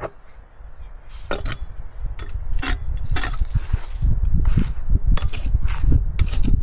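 Scattered knocks and clinks of hand tools working wood, over a low rumble that gets louder about four seconds in.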